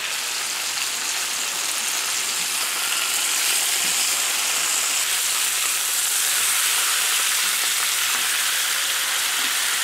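Speck-wrapped chicken legs sizzling steadily in hot oil in a frying pan as they brown.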